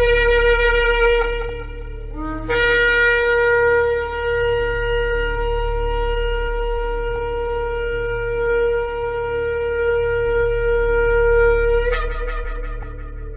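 Shofar blowing long sustained blasts. A first blast breaks off just before two seconds after a brief low note, then a long blast of about nine seconds ends with a sudden upward jump in pitch and fades away. A steady low drone sounds underneath.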